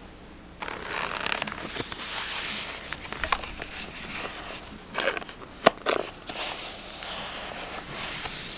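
Paper rustling and crinkling as journal paper is handled, with several sharp clicks, the loudest about two-thirds of the way through.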